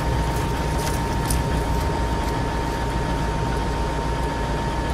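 2000 GMC Yukon's V8 engine idling steadily, with a thin, steady high tone over the low rumble.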